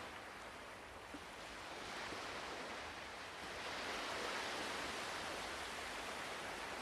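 Ocean waves washing ashore: a soft, even rush that dips in the first second, then swells over the next few seconds and stays up.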